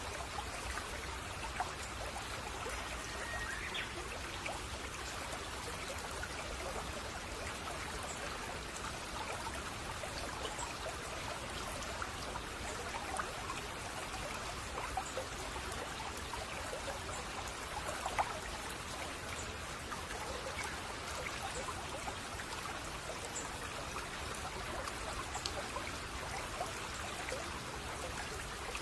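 Shallow brook babbling and trickling over stones, a steady rush with many small splashes.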